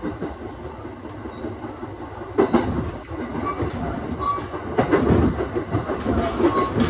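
Aoimori Railway 701-series electric train running on the line, heard from inside the car: a steady rumble of wheels on rail, with a few sharp knocks as the wheels cross rail joints.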